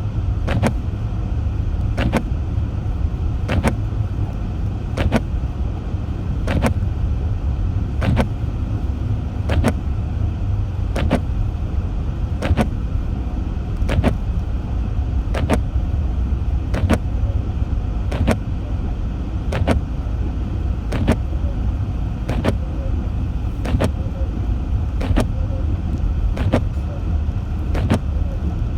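Car driving slowly on a snow-covered road, heard from inside the cabin: a steady low rumble of engine and tyres. Over it, windshield wipers click at each end of their sweep, about every second and a half.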